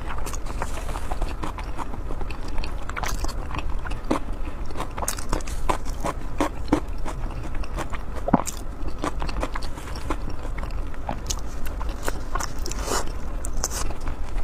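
Close-miked eating: chewing with irregular short smacking clicks, over a steady low hum.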